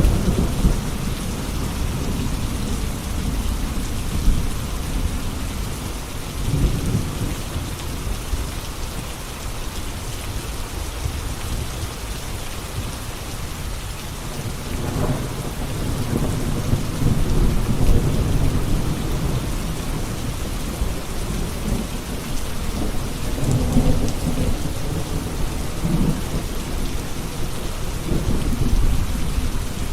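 Steady heavy rain with rolling thunder, the low rumbles swelling and fading several times.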